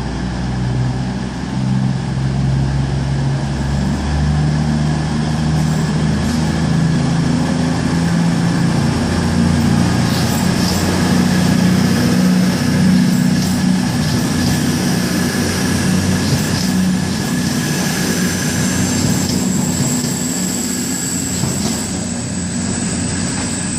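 CrossCountry Class 220 Voyager diesel multiple unit pulling out, its underfloor diesel engines running under load as it gathers speed. A thin high whine rises slightly in pitch through the second half.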